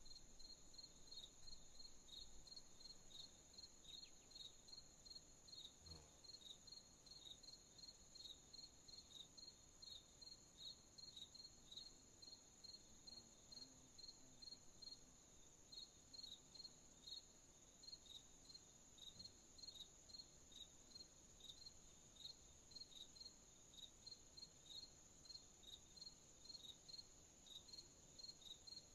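Faint night chorus of crickets: a steady high-pitched trill with a regular chirping, about two to three chirps a second, running evenly throughout.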